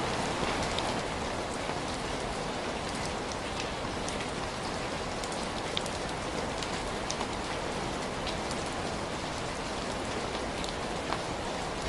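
Steady rainfall with scattered small, sharp ticks throughout.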